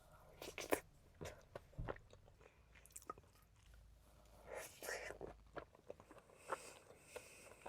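Close-up mouth sounds of chewing and biting a mouthful of peach cobbler with ice cream: scattered soft wet clicks and brief smacking bursts.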